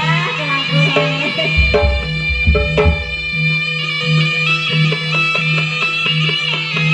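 Jaranan gamelan music: a nasal, bagpipe-like reed melody (slompret) over a pulsing low drone and percussion, with a deep boom of drum or gong from about one and a half to three seconds in.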